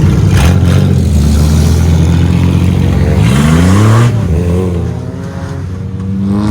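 Race car engines running loud on the track. About three seconds in, one engine revs up in rising pitch, and then the noise falls away.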